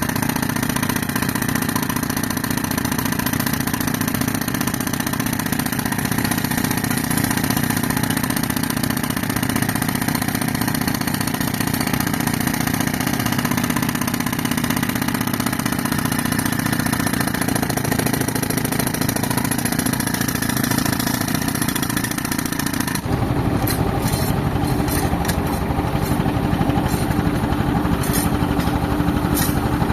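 Tractor engine running steadily to drive an air compressor. About 23 seconds in, the sound changes character and grows slightly louder, with a scatter of sharp clicks.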